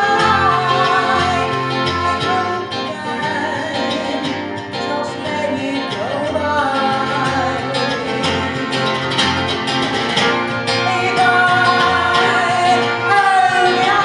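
Live band music: an instrumental break between sung verses, with plucked guitar and a gliding melodic lead line over a slow, even bass pulse.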